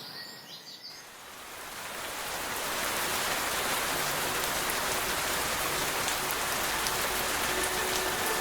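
Steady rain, a dense even patter that fades in over the first two seconds or so and then holds level.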